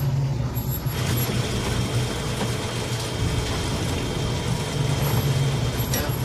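Car engine running steadily with a low hum, and a faint high whine coming in about a second in.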